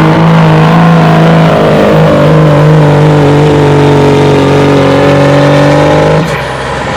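A 2005 Dodge diesel pickup's engine runs at high, steady revs under full load while pulling the sled. About six seconds in, the throttle is let off and the engine note drops away sharply as the truck comes to a stop.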